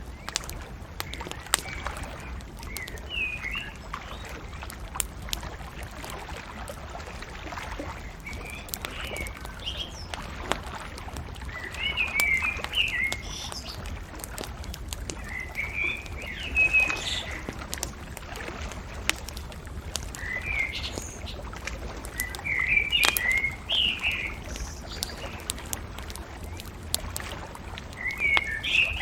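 Bonfire crackling with frequent sharp pops, while songbirds chirp in short bursts every few seconds, over a low steady rumble.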